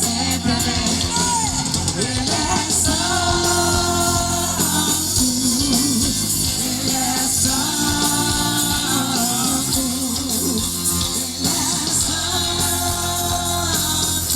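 Live band playing a Brazilian gospel song with a female lead voice singing long held notes with vibrato over a steady accompaniment.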